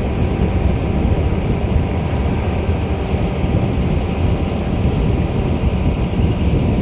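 Freight train rolling past: a steady, loud low rumble of wheels and cars on the rails.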